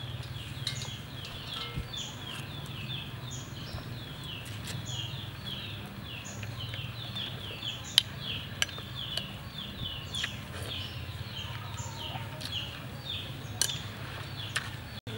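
A bird chirping over and over, a few short falling chirps a second, with a few sharp clinks of a spoon and chopsticks against a ceramic bowl.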